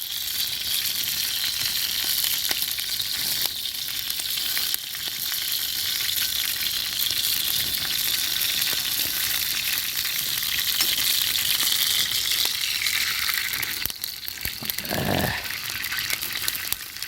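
Meat sizzling steadily in hot fat over a campfire, with a brief lower sound near the end.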